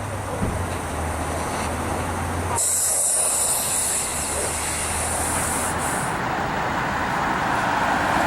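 Fire apparatus engine rumbling low and steady, with a loud hiss starting about two and a half seconds in and cutting off about three seconds later. Road noise swells near the end.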